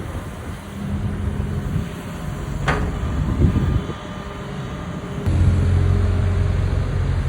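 Excavator's diesel engine running with a steady low rumble, stepping up louder about five seconds in as it takes more load. There is a brief sharp high sound a little before the middle.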